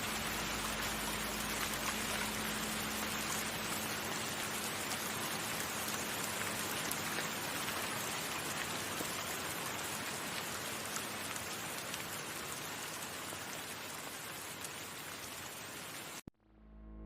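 Steady heavy rain with a low steady hum beneath it, cutting off abruptly near the end, where a deep droning tone with many overtones begins to swell in.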